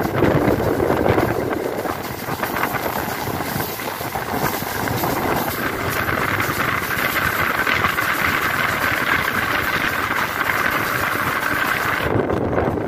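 A MEMU electric train running at speed: a steady rumble of wheels on the rails, with wind rushing past the microphone held out of the coach door. The high hiss drops away suddenly near the end.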